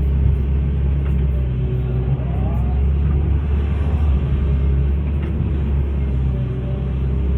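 Hitachi excavator's diesel engine running steadily under work, a constant low drone with no change in pace.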